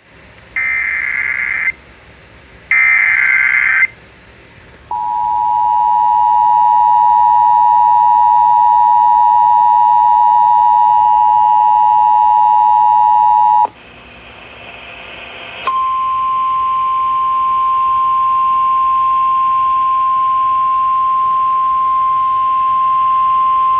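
Emergency Alert System tones over FM radio: two short buzzy digital header bursts, then the two-tone attention signal held for about nine seconds. After a brief break a single steady warning tone sounds for about nine more seconds, announcing a severe thunderstorm warning.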